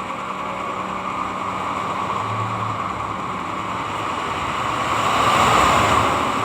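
A small motor-driven sharpening machine running with a steady rushing noise that swells about five seconds in.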